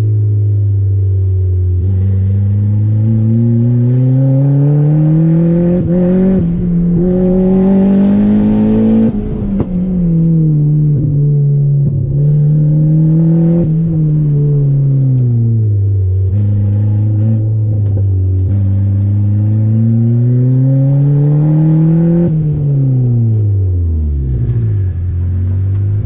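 Turbocharged Honda D16 single-cam four-cylinder in a Civic, heard from inside the cabin, being driven hard through an autocross course. The revs climb under throttle and fall back between corners several times, with the longest climb in the first third and a steep drop near the end to a low steady note.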